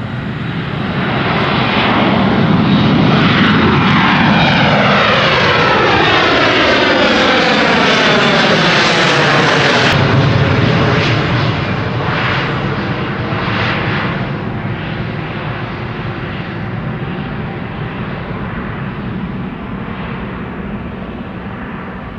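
Airplane passing low overhead. Its engine noise swells within the first two seconds, stays loud for about nine seconds, then slowly fades away.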